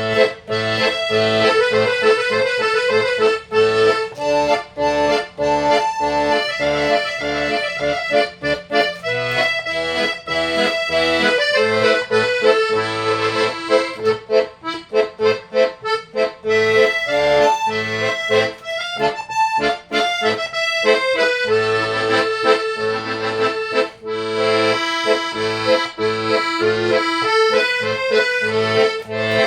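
Accordion playing a melody, with a regular pattern of bass notes and chords underneath.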